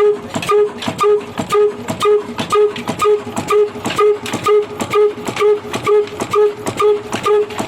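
22 HP diesel oil engine running under load as it drives a stone wheat grinder, beating evenly at about two beats a second, with a short tone on each beat.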